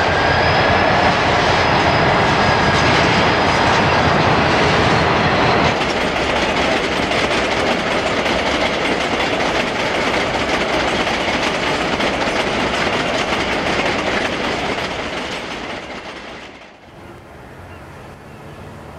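Diesel freight train passing close by: loud engine and rolling noise at first, then the steady rumble and clatter of a long string of freight cars rolling past, fading out about sixteen seconds in.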